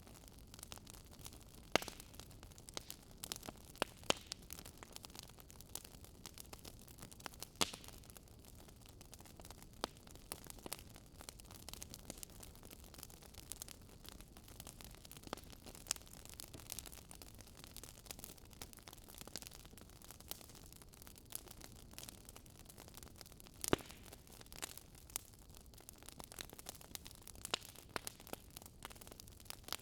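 Wood fire crackling in a fireplace: irregular sharp pops and snaps of burning logs, a few louder than the rest, over a soft steady hiss.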